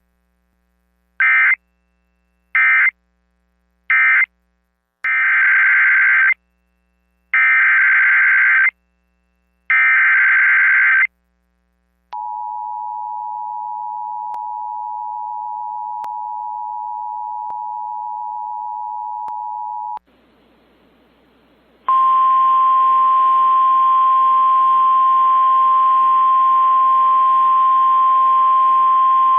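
Weather radio alert signals: three short screeching SAME data bursts (the end-of-message code of the previous warning), then three longer SAME header bursts, then about eight seconds of the two-tone Emergency Alert System attention signal. After a brief pause comes the steady single-pitch 1050 Hz weather alert tone, which announces a new warning.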